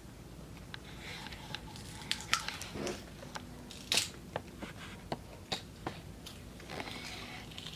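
Young children biting and chewing raw lettuce leaves: soft, irregular crisp crunches and mouth clicks.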